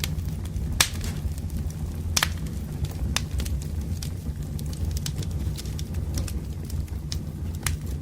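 Wood campfire burning, with sharp crackles and pops from the firewood at irregular intervals over a steady low rumble of the flames.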